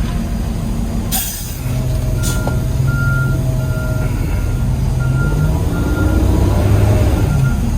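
Garbage truck reversing: its backup alarm beeps steadily, about one and a half beeps a second, over the diesel engine drone, which rises in pitch near the end. A short hiss of air sounds about a second in.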